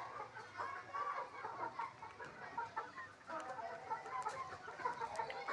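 Chickens clucking: many short, overlapping calls.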